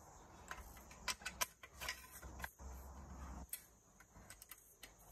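Faint, scattered light clicks and taps from handling the roof basket's metal bars and plastic joint parts.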